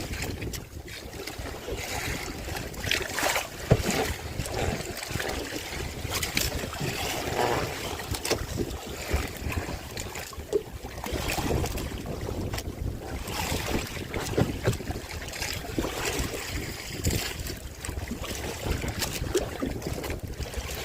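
Wind buffeting the microphone over water, with irregular knocks and splashes scattered throughout; the sharpest knocks come about four seconds in and again past the middle.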